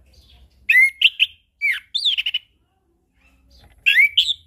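Orange-headed thrush singing: loud, clear whistled phrases of quick up-and-down sliding notes, two bursts in the first half, a pause of about a second and a half, then another phrase near the end.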